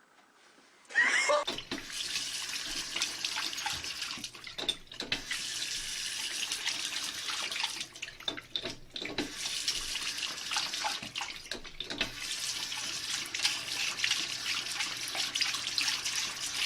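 Water running steadily from a tap, starting about a second in and briefly dipping a few times.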